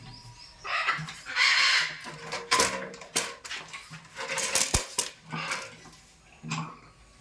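Pet parrot squawking in a string of harsh bursts, with a few sharp clicks and clatters in between.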